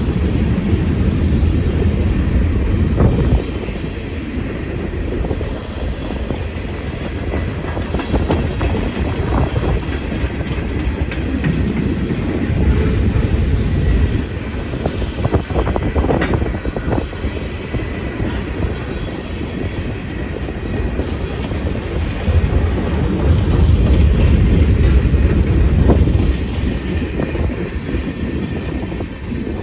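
Train cars rolling past with a steady loud rumble and scattered clicks of the wheels over the rail joints.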